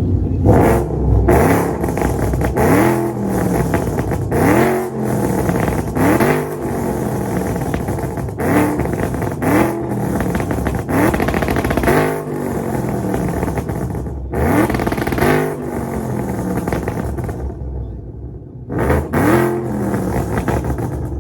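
A car engine revved over and over in short blips, its pitch sweeping sharply up with each one, roughly every one to two seconds. There is a short lull near the end before two final blips.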